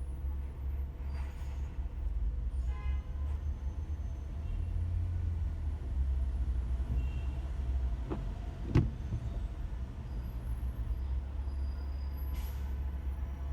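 A car driving slowly in heavy city traffic: a steady low rumble of engine and road, with a single sharp knock about nine seconds in.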